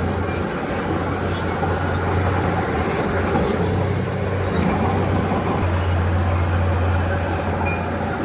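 Heavy diesel earthmoving machine running steadily under work, a constant low engine drone with noisy mechanical clatter above it and faint high ticks scattered through.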